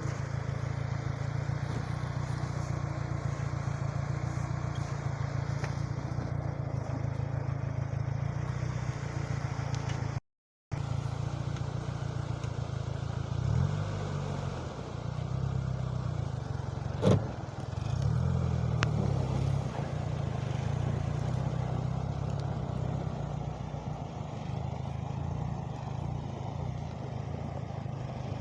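Homemade mini tractor's engine running steadily while it pushes snow with its blade. From about halfway through, the engine note wavers up and down under load, with one sharp knock a few seconds later.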